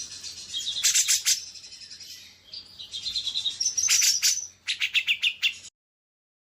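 Recorded songbird song: loud, high-pitched trills and rapid chattering phrases in several bursts, cutting off abruptly to silence near the end.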